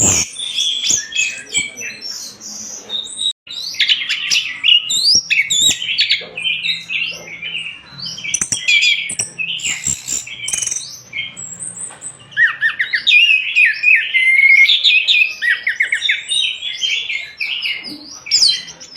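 Orange-headed thrush singing a fast, varied song of chirps and quick rising and falling whistles, with a brief break about three seconds in.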